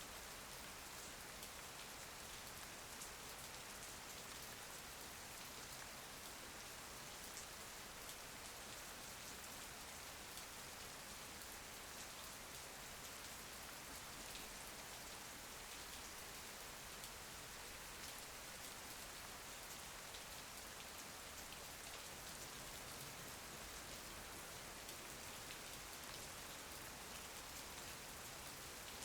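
Steady rain, a soft even hiss with faint scattered drop ticks and no thunder.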